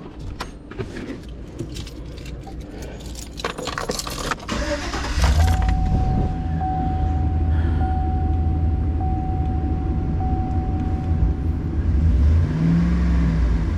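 Keys jangling and clicking in the ignition, then about five seconds in the van's engine starts and settles into a steady idle. A steady warning chime sounds over the idle for about six seconds. This is the first start after replacing the part for the P0449 evaporative-system code.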